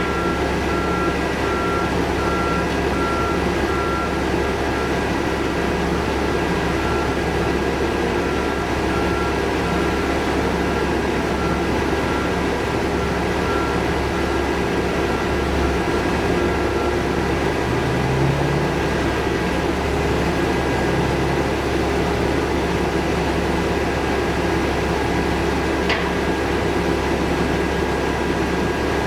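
Construction machinery running steadily, with a vehicle's reversing alarm beeping about once a second until a little past halfway, when it stops. A single short click comes near the end.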